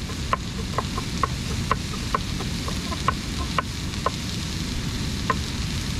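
Tuna sizzling steadily in a pan over a camp stove, with short light ticks about twice a second.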